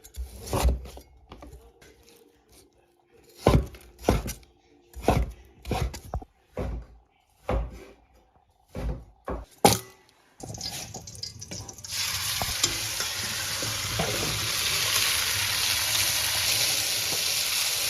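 Sharp kitchen knocks on a work surface, irregular and roughly one a second, then from about ten seconds in a loud, steady hiss that cuts off suddenly at the end.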